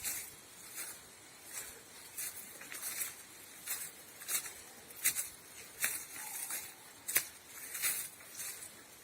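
Footsteps rustling and crunching through forest undergrowth at walking pace, about one step every three-quarters of a second.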